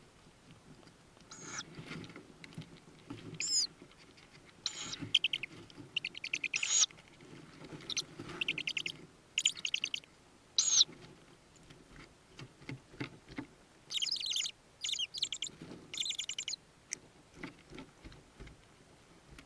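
Tawny owl chicks in a nest box giving about a dozen short, high, buzzy calls in irregular runs, over soft rustling and scuffling in the box.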